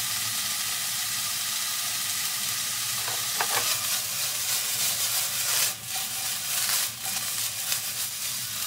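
Diced chicken sizzling in a non-stick wok over a portable gas stove. From about halfway through, the wok is lifted and shaken, and the sizzle breaks up and dips briefly a couple of times as the pieces shift.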